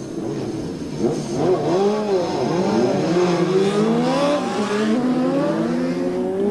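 Several racing motorcycle engines revving at once, their pitches rising and falling over one another and climbing gradually through the second half.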